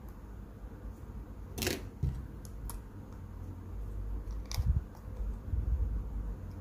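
A few sharp small clicks and taps of tools and small phone parts being handled during iPhone 4s reassembly, the loudest about a second and a half in, over a low rumble of handling noise.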